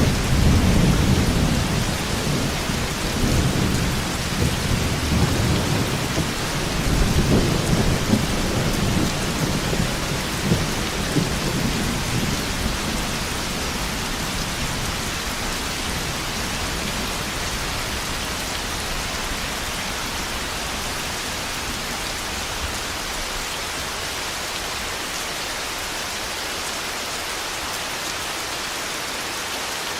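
Thunderstorm: steady heavy rain with deep rolling thunder that rumbles loudest in the first few seconds and again around a quarter of the way in, then fades, leaving the rain alone.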